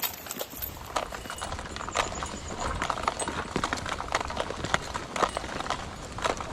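Footsteps on stony ground: irregular clacks and knocks over a steady low rumble.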